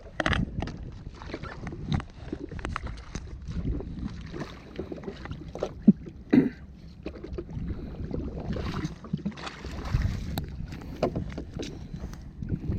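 Water slapping and sloshing against the hull of a drifting jet ski, with scattered knocks and clicks of handling on board.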